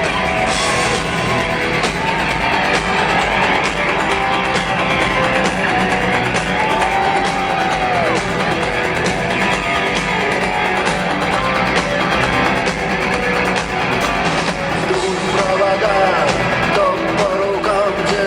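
Rock band playing live in an arena: electric guitars and drums.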